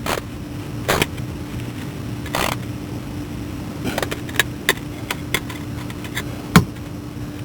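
Scattered sharp metallic clicks and a short scrape of hand tools and bolts being handled while fitting a starter, the loudest click about two-thirds of the way through, over a steady low hum.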